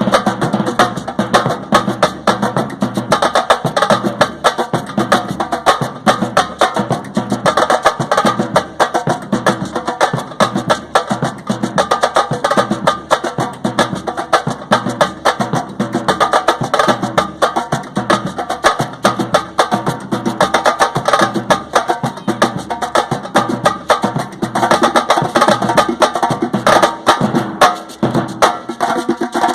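Drums played in Brazilian street-percussion style: a fast, unbroken stream of sharp stick strikes.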